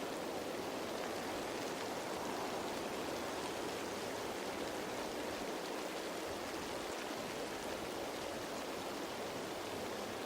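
Steady rain falling on leaves: an even, unbroken hiss of drops.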